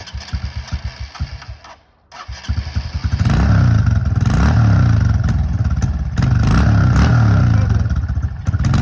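Electric-start dirt bike engine running roughly and unevenly, cutting out for a moment about two seconds in, then catching and running loud at high revs, the pitch rising and falling with the throttle.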